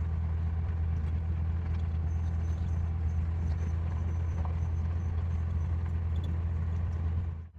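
Truck's engine and road noise while driving slowly, a steady low drone that drops out abruptly just before the end.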